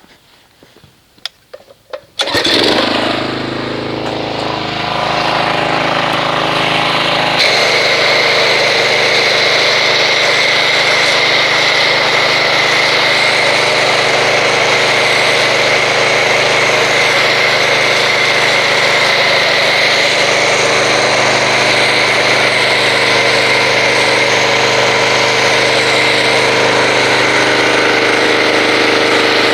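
A pressure washer starts up about two seconds in and runs steadily. A few seconds later the foam cannon on it opens, adding a loud, steady spray hiss over the machine as it sprays car-wash foam.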